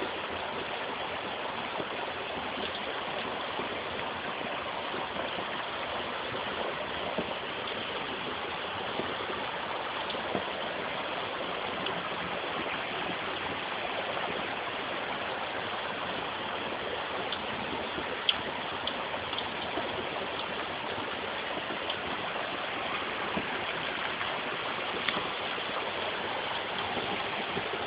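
Fast-flowing floodwater stream rushing steadily, a roaring stream swollen by heavy rain. A few brief sharp ticks sound over it.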